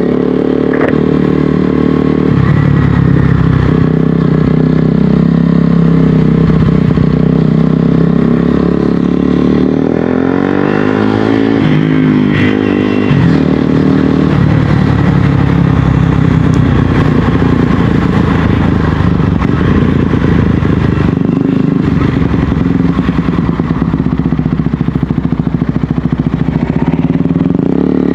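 2024 KTM 250 Duke's single-cylinder engine running through an MSH G4 slip-on exhaust. The engine speed rises and falls, with pitch changes about ten seconds in and again near the end.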